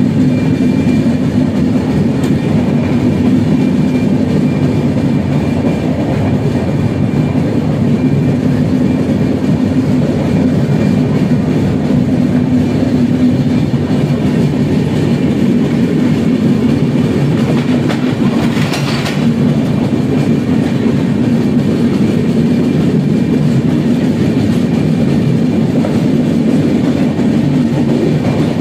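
Indian Railways passenger coaches rolling past close by: a steady heavy rumble with the clickety-clack of wheels on the rails. There is one brief sharp, higher noise about two-thirds of the way through.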